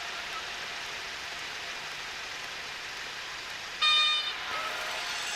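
Cessna 152 cockpit noise: steady engine and airflow. About four seconds in, the stall warning horn sounds loudly for about half a second, then trails off into fainter tones, warning that the wing is near the stall as the plane flares to land.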